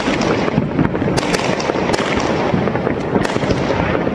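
Many fireworks and firecrackers going off all around at once: a continuous rumble of bangs with frequent sharp cracks, several a second.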